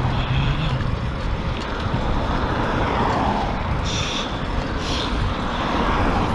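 Wind rushing over the microphone of a rider's camera while cycling, with road and traffic noise swelling twice. Two short hissy bursts come in the middle.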